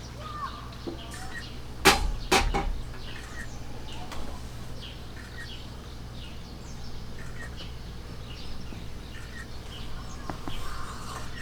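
Two sharp knocks about half a second apart, over small birds chirping.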